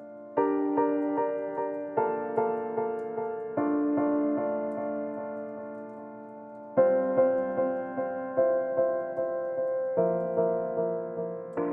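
Soft background music on electric piano: gentle sustained chords with repeated notes about three times a second, a new chord entering every couple of seconds.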